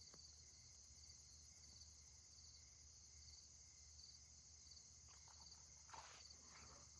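Faint chorus of crickets chirping steadily in a regular rhythm, with a faint low hum underneath and a brief soft rustle about six seconds in.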